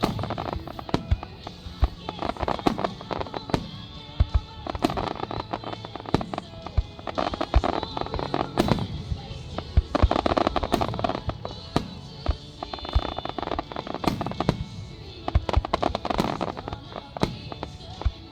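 Fireworks going off, with many sharp bangs and pops at irregular intervals, some in quick clusters, over continuous music.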